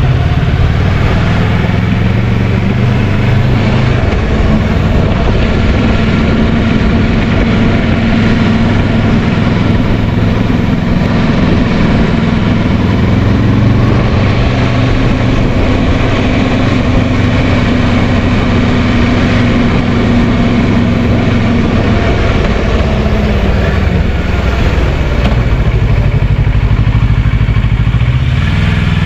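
Kawasaki Versys 650's parallel-twin engine running while riding, its pitch easing off about three-quarters of the way through and picking up again near the end, over steady wind and road noise.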